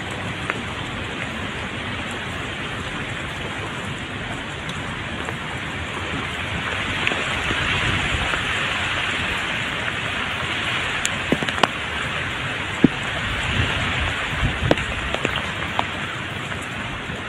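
Heavy hurricane rain falling steadily, a dense even hiss, with scattered sharp ticks of drops striking close by.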